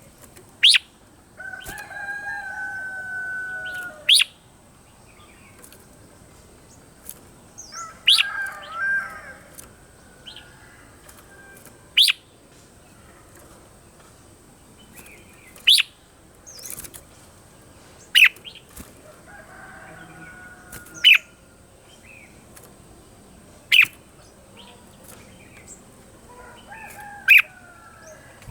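Red-whiskered bulbul calling: short sharp notes every few seconds, with a few longer held calls, each lasting one to two and a half seconds, that fall slightly in pitch.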